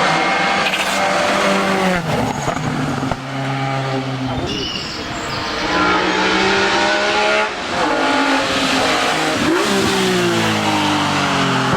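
Hill-climb race car accelerating hard, its engine revving up through the gears with a sharp drop in pitch at each shift, four shifts in all.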